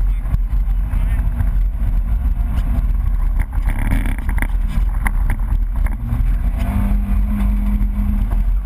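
BMW E30 rally car's engine running hard, heard from inside the cabin over heavy road and wind rumble. The revs climb to a steady pitch near the end.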